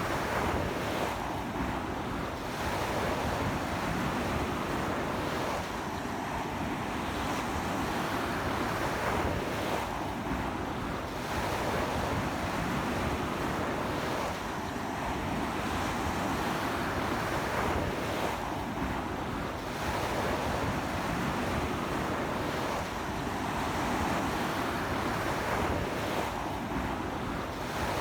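Sea waves breaking and washing up a beach in strong wind, the surf noise swelling and easing every few seconds.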